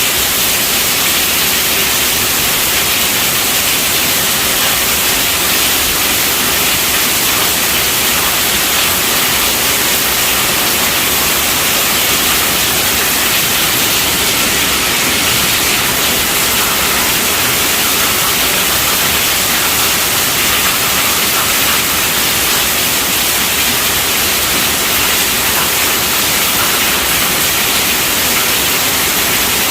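Steady rainfall: a dense, even hiss, brightest in the high range, with no single drops or other sounds standing out.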